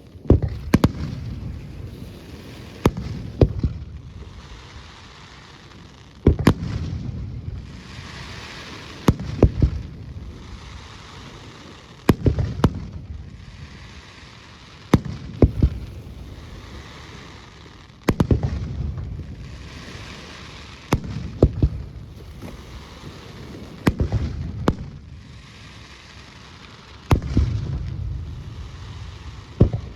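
Fireworks display: aerial shells bursting with sharp bangs every two to three seconds, each followed by a long echoing rumble and crackle.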